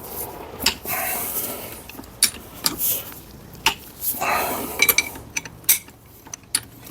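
Metal hand tools clicking and clinking against steel gearbox parts, with scraping and a ringing ping about five seconds in, as the stiff fifth-gear hub of a Toyota MMT gearbox is worked off its shaft.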